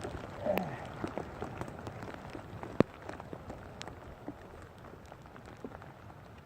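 Rain falling steadily, with scattered drops ticking sharply close by at irregular moments; one tick a little under three seconds in stands out louder than the rest.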